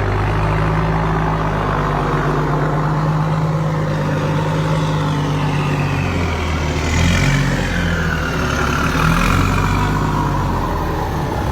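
A large truck's engine running, its pitch shifting up and down in steps, with fainter high sounds sliding down in pitch through the middle.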